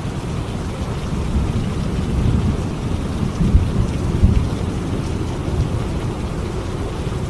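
Steady rain with a low rumble of thunder that swells in the middle, peaking twice in quick succession.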